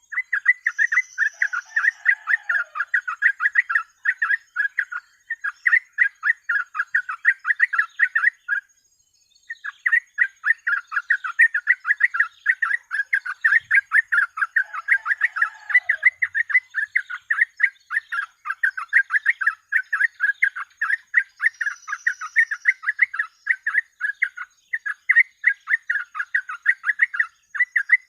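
Yellow-vented bulbul (trucuk) singing non-stop in a fast, chattering string of short notes, broken once by a pause of about a second roughly nine seconds in.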